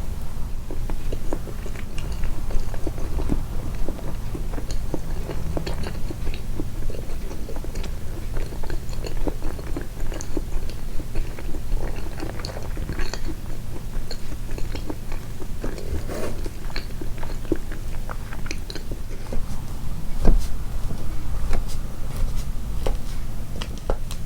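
Close-miked chewing of soft pancake-like sweets with red bean cream: continuous wet mouth clicks, smacks and occasional swallows over a steady low hum.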